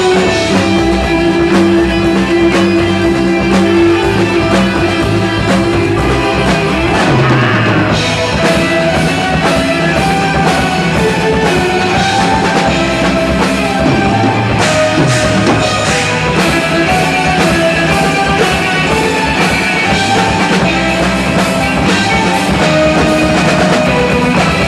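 Live rock band playing an instrumental passage without vocals: drum kit, electric guitar and bass, with keyboards and violin in the lineup.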